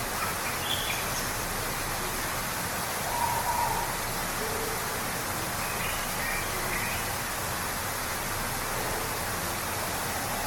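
Steady rushing of a waterfall, with a few short bird calls over it, the clearest about three seconds in.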